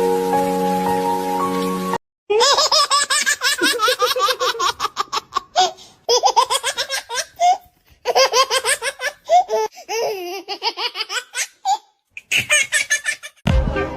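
Held music notes for about two seconds, then high-pitched laughter in rapid runs of short pulses with brief pauses between runs, like a baby laughing. Music with a beat comes in near the end.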